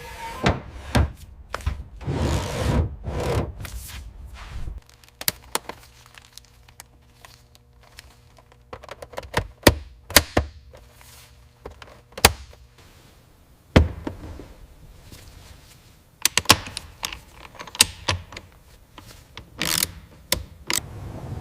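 Workshop handling noises: scattered thunks, knocks and sharp clicks, with two short scraping bursts in the first few seconds and a faint steady hum underneath.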